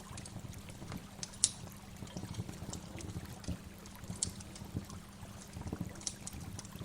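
Waterfall: water pouring and splashing steadily, with many small irregular splashes and drips.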